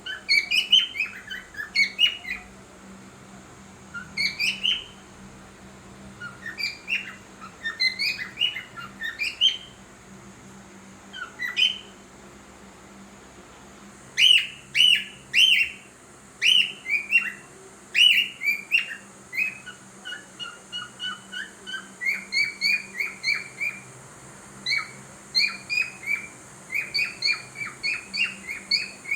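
Cockatiel chirping and warbling in short clusters of quick, sharp notes with pauses between them, then a longer, faster run of repeated chirps in the second half, as it tries to sing.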